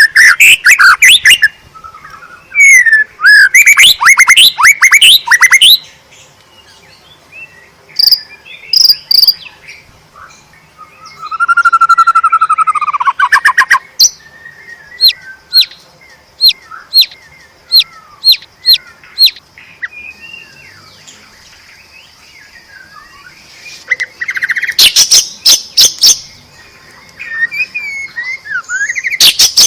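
White-rumped shama singing in loud, varied phrases with pauses between them: rapid trills, a long whistle that rises then falls, and a run of about nine sharp repeated notes.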